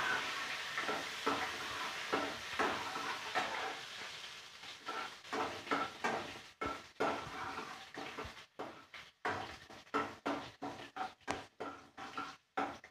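A spatula stirs and scrapes in a steel kadai while cumin seeds and garlic sizzle in hot oil. The sizzle fades after about four seconds. After that, separate scraping strokes come about twice a second.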